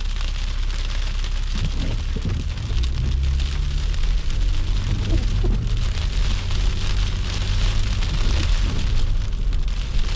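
A car driving on a wet, slushy snow-covered road. There is a steady low rumble from the engine and road, and a continuous rain-like hiss of the tyres through the slush. The rumble gets a little louder about three seconds in.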